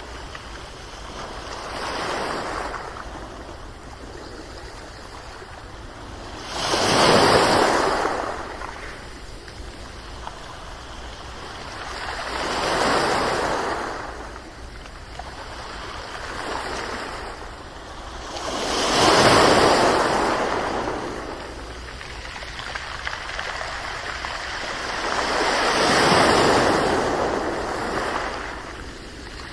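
Ocean waves rolling in, about one every six seconds, each swelling and fading back into a softer, steady wash of water.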